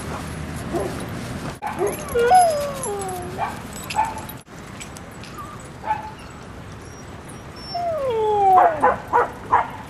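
Dogs vocalizing in play: long falling whine-like yowls about two seconds in and again near the end, with short yips and barks between them and a quick run of yips near the end.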